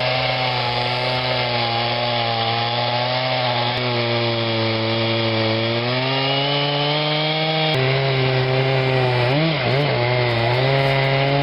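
Chainsaw running at high revs while cutting through a large log, its engine pitch sagging a little under load in the cut and then picking back up, with a brief wavering of pitch near the end.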